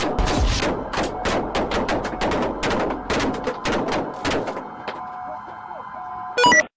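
Rapid gunfire: a long run of sharp shots in quick succession that thins out after about four seconds, over a steady tone. A brief, very loud electronic beep comes near the end.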